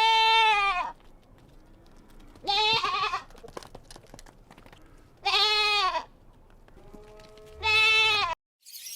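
A farm animal bleating four times, each loud call lasting just under a second and dipping slightly in pitch at its end, about two and a half seconds apart.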